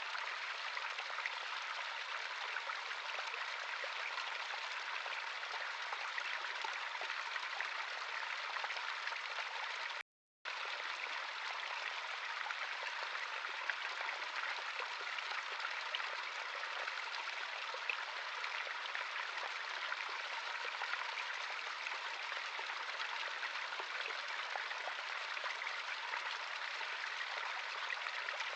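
Running water of a small stream, a steady rushing and babbling. About ten seconds in it cuts out completely for half a second, then resumes.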